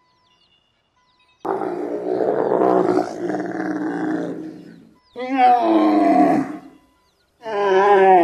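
Animal calls: one long call starting about a second and a half in, then two shorter calls with a wavering pitch.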